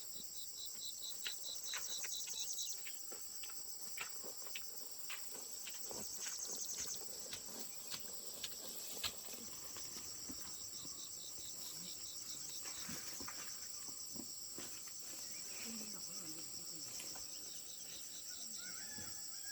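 Insects trilling steadily in high pulsed chirps, with two short bursts of faster chirping a little lower in pitch, one at the start and one about halfway through. Occasional light clicks or knocks are scattered through the middle.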